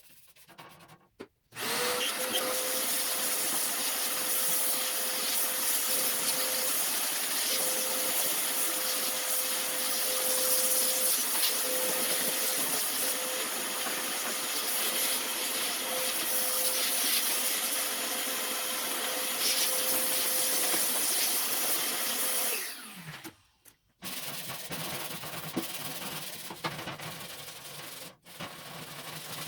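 Handheld electric power tool running steadily with a steady whine, abrading light surface rust off a cast-iron wood stove. About 22 seconds in it winds down and stops, followed by fainter scraping and rubbing on the metal.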